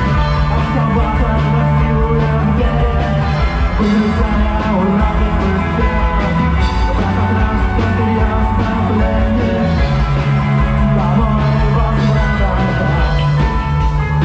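A live rock band playing psychedelic rock: electric guitars over long held bass notes and drums.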